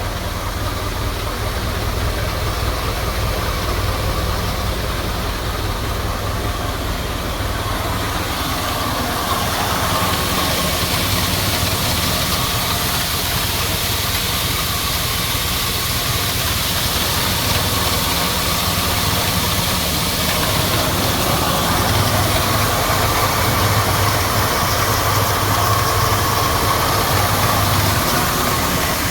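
A vehicle engine running steadily, growing a little louder and harsher about ten seconds in.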